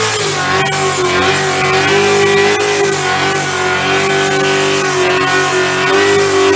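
Car engine running at high, nearly steady revs, its pitch wavering slightly.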